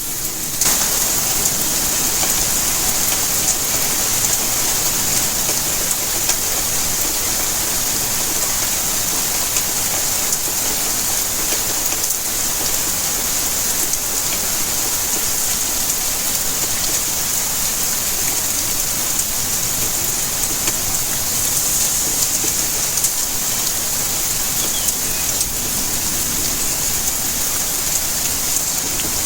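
Steady rainfall: an even, continuous hiss, brightest in the high range, with a brief dip about half a second in.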